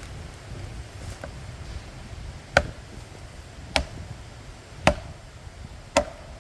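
Plastic felling wedges being hammered into the back cut of a pine to tip it over. Four sharp strikes, about one a second, starting about two and a half seconds in.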